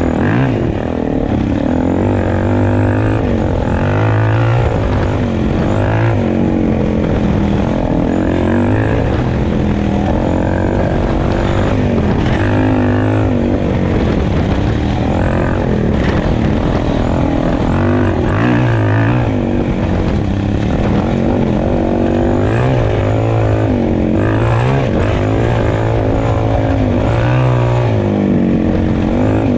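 Suzuki dirt bike engine running while riding a trail, heard close up from a camera mounted low on the bike. The revs rise and fall over and over.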